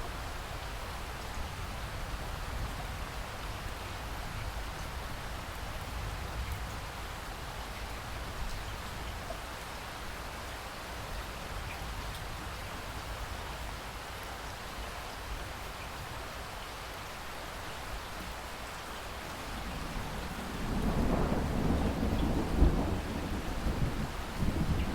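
Steady rain falling, then about twenty seconds in a roll of thunder rumbles in and grows louder, with a sharp crack near its peak.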